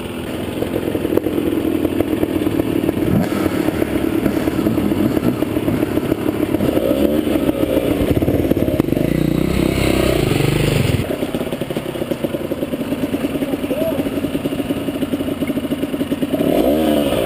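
Two-stroke Honda CRM enduro motorcycle engine running at low revs on a rocky climb, revving up and down in bursts, loudest about seven to eleven seconds in and again near the end, with clatter and scraping of the bike over stones.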